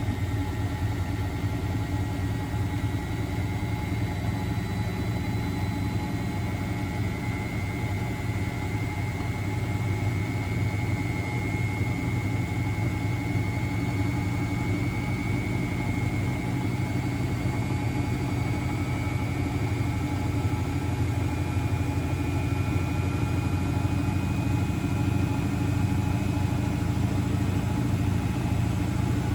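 Miele Novotronic W921 washing machine running: a steady motor hum with a high whine that slowly rises in pitch and then holds, growing slightly louder toward the end.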